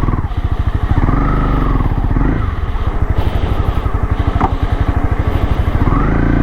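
Motorcycle engine running with a fast, even pulsing beat, its pitch rising and falling about a second in and again near the end as the revs change.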